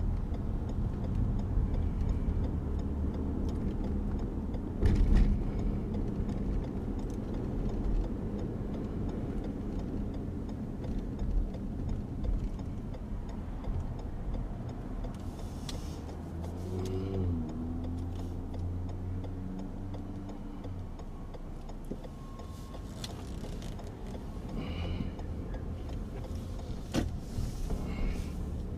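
Car engine and road noise heard from inside the cabin while driving in slow traffic, with the engine pitch rising as the car speeds up a little past the middle.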